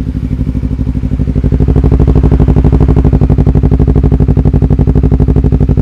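Motorcycle engine idling through a DX Generation Sphere Oval aftermarket slip-on exhaust: a steady, evenly pulsing, bassy exhaust note that gets a little louder about a second in.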